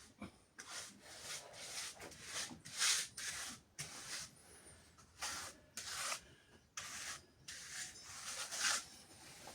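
A hand trowel scraping and smoothing wet cement over a floor in repeated short strokes, a little under two a second and uneven in spacing.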